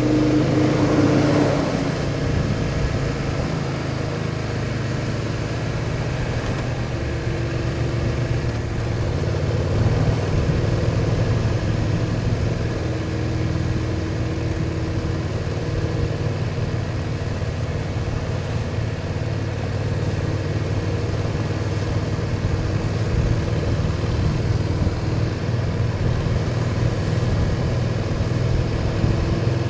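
BMW R1200 motorcycle's boxer-twin engine running steadily under way, with wind rushing past. There is a brief louder rush in the first couple of seconds.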